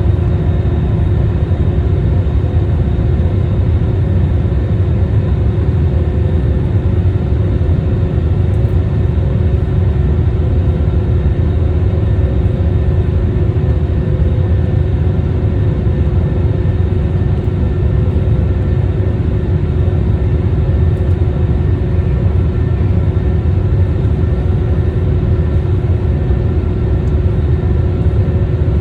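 Airliner's jet engines running steadily, heard from inside the passenger cabin as a constant low rumble with a steady hum over it.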